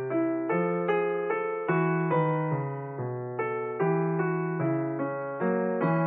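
Background piano music: a slow, gentle melody over bass notes, with a new note struck roughly every half second, each one fading before the next.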